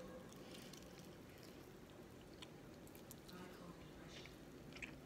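Faint chewing and mouth smacks of a person eating fried chicken, with scattered soft wet clicks.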